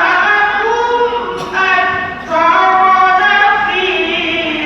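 A girl's high voice reciting the Qur'an in melodic tilawah style, holding long ornamented notes that waver and glide in pitch, with two short breaths between phrases.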